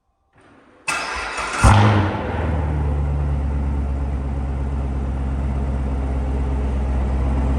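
A car engine cranks and catches with a sharp burst about a second and a half in, then settles into a steady, low idle.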